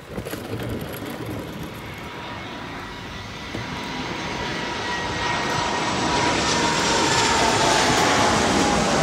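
Delta Airbus jet airliner on final approach passing low overhead. Its engine noise grows steadily louder, with a whine that slowly falls in pitch as it passes.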